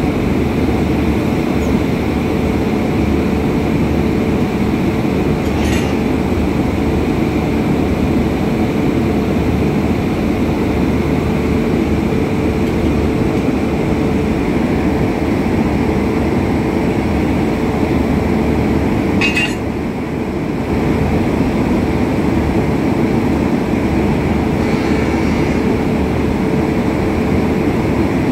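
Rajdhani Express train running, with a loud, steady rumble throughout. Two brief high squeaks break in, about six seconds in and again near twenty seconds.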